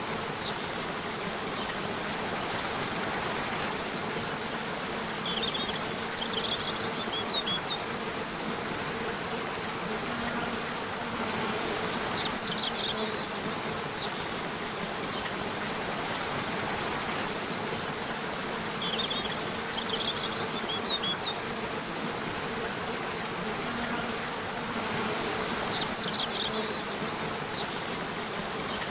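Nature soundscape: insects buzzing steadily over a constant hiss, with groups of short high chirps returning about every six or seven seconds.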